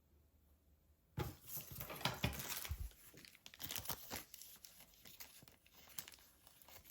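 Rustling and crinkling handling noise with sharp clicks, starting suddenly about a second in and loudest for the next two seconds, then thinning to scattered small clicks and rustles.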